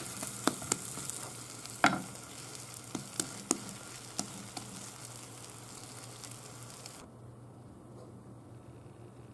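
Grated-daikon mochi sizzling in oil in a nonstick rectangular tamagoyaki pan, with sharp clicks and taps of the spatula against the pan as the cake is turned; the loudest click comes about two seconds in. About seven seconds in the sizzling stops abruptly, leaving only a faint low hum.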